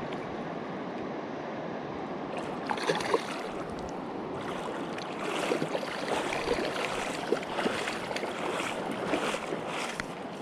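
Mountain river rushing steadily. From about two and a half seconds in, irregular short splashy and scuffing noises come and go.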